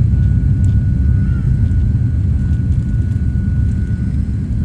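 Jet airliner engines running: a loud, steady low rumble with a thin steady whine above it.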